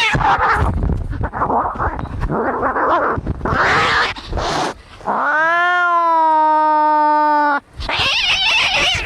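Angry cats fighting: harsh, noisy hissing and growling, then one long drawn-out yowl of about two and a half seconds starting about five seconds in, followed by more harsh hissing.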